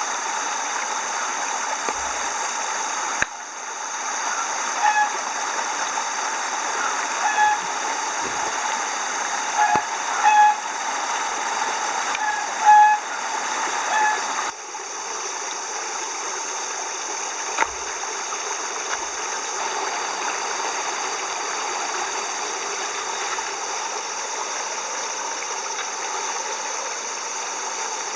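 Steady rush of running water, like a mountain stream. Between about four and fourteen seconds in, a scatter of short, high chirps sounds over it.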